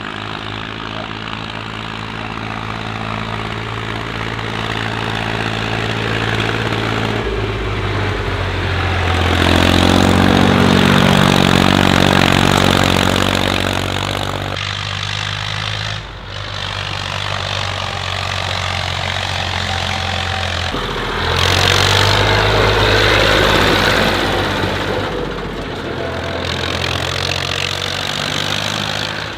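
Tractor engines running in a series of short, abruptly changing takes; twice the engine grows louder for a few seconds.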